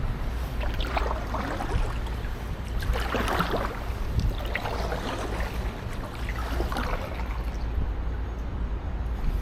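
Kayak paddle blades dipping and splashing in the water, a stroke about every one and a half to two seconds, over a steady low rumble of wind on the microphone.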